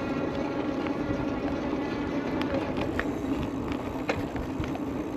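Steady rolling noise of an Aventon Level 2 e-bike in motion, with scattered light ticks and rattles from the bike.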